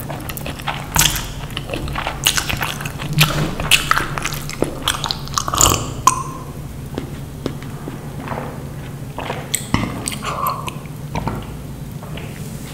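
Close-up eating sounds: a person chewing and biting food, with many short wet mouth clicks, dense for the first half and sparser later.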